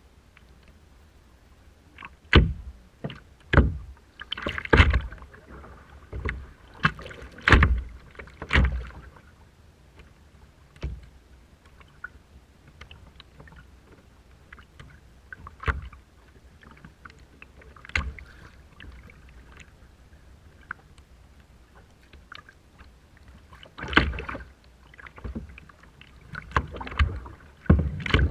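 Rough seawater splashing and slapping in irregular bursts, each with a deep thump, clustered in the first few seconds and again near the end.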